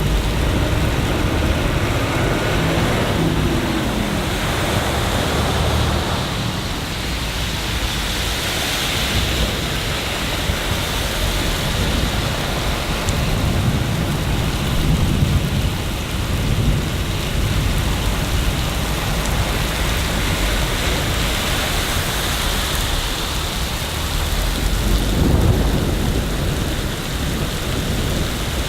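Steady rain falling, with low rumbles of thunder that swell about halfway through and again near the end.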